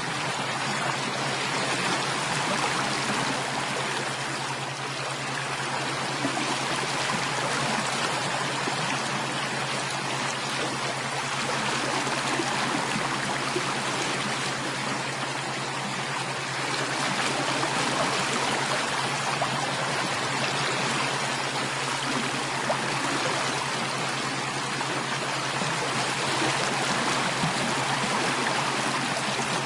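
Running water of a stream flowing steadily, with a low steady hum beneath it.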